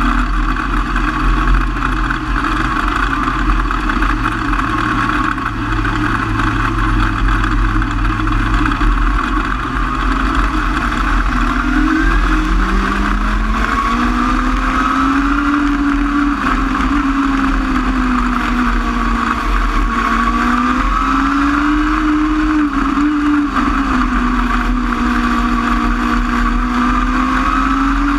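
Micro sprint race car engines running hard during a race, with a steady drone for the first dozen seconds, then the pitch climbing and swinging up and down repeatedly as the throttle comes on and off through the corners.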